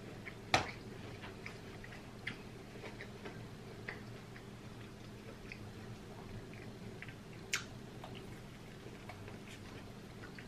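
Close-miked chewing and wet mouth sounds from eating buttered corn on the cob, made up of many small scattered clicks. Two louder, sharper clicks stand out, one about half a second in and one about three-quarters of the way through, over a steady low hum.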